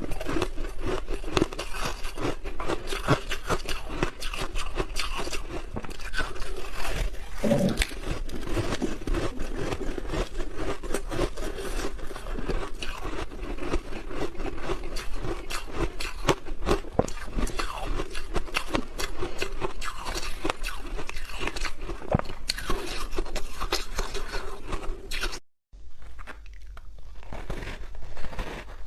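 Crunchy ice dusted with matcha powder being bitten and chewed, in dense rapid crackling crunches. About 25 seconds in the sound breaks off for a moment, then goes on quieter with fewer crunches.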